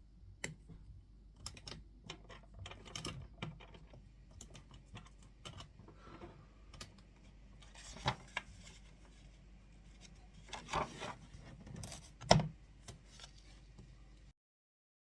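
Irregular light clicks and taps of things handled on a desk, with a sharper knock about twelve seconds in; the sound cuts off just past fourteen seconds.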